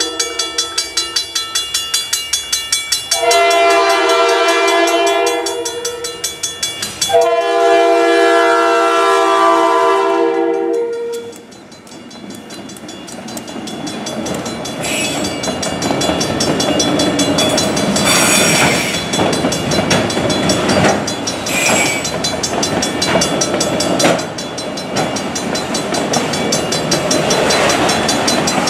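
A grade-crossing bell rings in a steady pulse. A diesel locomotive's air horn then sounds two long blasts, and the freight train rolls over the crossing: a steady rumble and clatter of wheels on rail, with a few brief louder screeches as the autorack cars pass.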